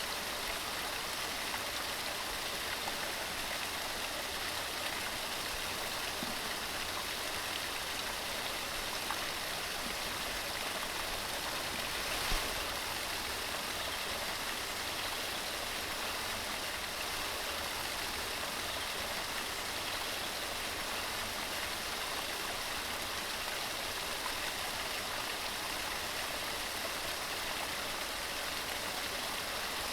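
Waterfall tumbling over mossy rocks: steady, even rushing of falling water, with one brief small splash about twelve seconds in.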